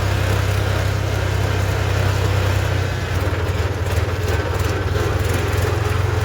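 Tractor's diesel engine running steadily with a deep, even hum while on the move.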